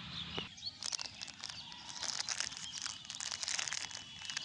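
Plastic litter crinkling and crackling as it is handled and pulled free of the grass, a dense run of crackles starting about a second in.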